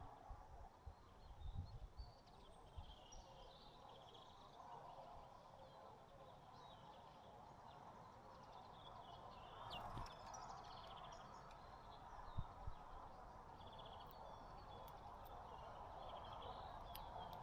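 Faint, scattered chirps and twitters of small birds over a steady background hiss, with a few soft low knocks.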